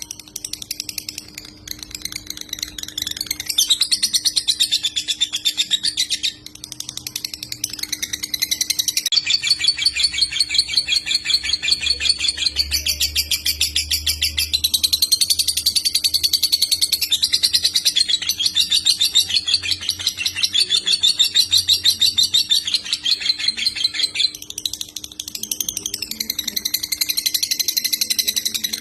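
Lovebird singing in long, very rapid chattering trills with brief breaks: the continuous 'konslet' style of song. A faint steady hum runs underneath.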